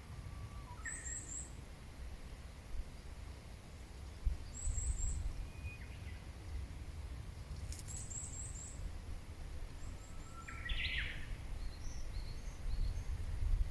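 Wild birds calling: quick clusters of very high chirps repeating every few seconds, a few lower calls, and one stronger call near the end, over a steady low rumble.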